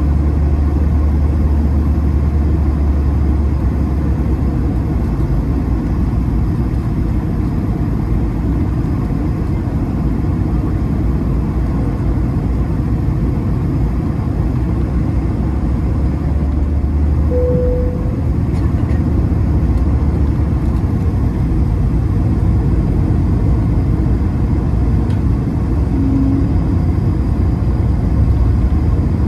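Cabin noise of an Airbus A220-300 in flight: a steady rumble from its Pratt & Whitney geared turbofans and the airflow. There is a brief short tone about halfway through and a lower one near the end.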